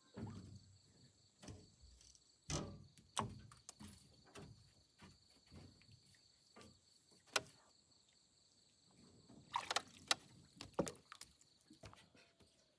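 Irregular wooden knocks and clatters, a few louder ones clustered near the start and again near the end, over a steady high-pitched drone of night insects.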